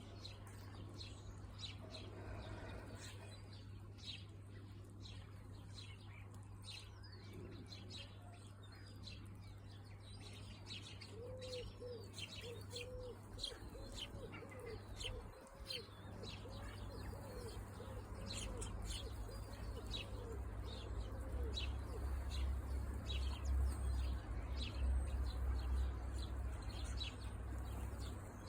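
A flock of birds at feeding time, with short chirps throughout and a run of about ten low, evenly repeated calls in the middle. A steady low hum sits underneath, and a deeper rumble joins it in the second half.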